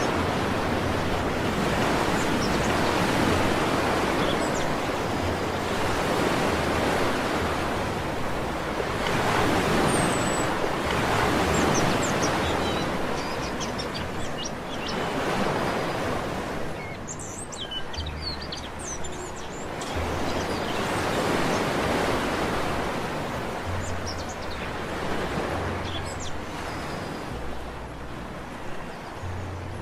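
Sea waves breaking on a beach, the surf swelling and falling every several seconds. Small birds chirp faintly now and then over it.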